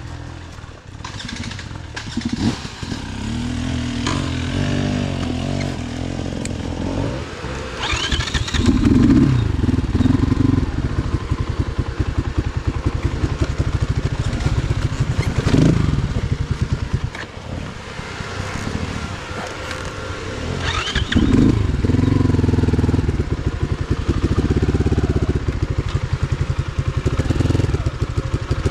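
Motorcycle engine running, revved up three times with short surges between stretches of lower running.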